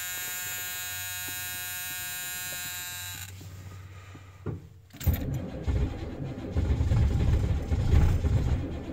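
A steady electric buzz stops about three seconds in, followed by a click. From about five seconds in, the 1982 Chevrolet C10's 6.2 L diesel V8 cranks on the starter with an uneven chugging, trying to fire on a cold start at 16 °F with no block heater. It is close to catching but not yet running.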